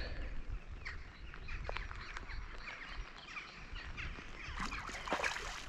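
Rain pattering with a little wind rumble, and many scattered short ticks and splashes. These grow denser near the end.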